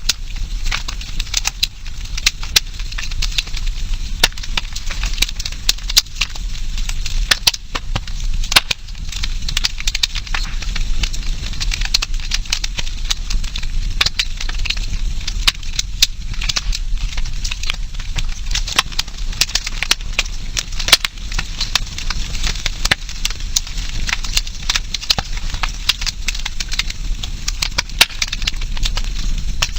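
Wood campfire burning and crackling, with a steady hiss of flames and frequent irregular sharp pops and snaps.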